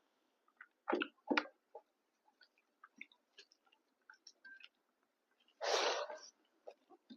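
Close-miked eating of pork fry, rice and dal: soft wet chewing and small mouth clicks, with two loud crunchy bites about a second in. Near six seconds comes a short, loud hissing burst, like a sharp breath.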